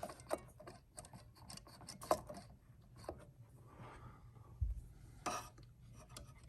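Light clicks and taps from handling the plastic parts of a Nespresso Vertuo Plus coffee machine, with a dull low thump a little over halfway through and a sharper click just after.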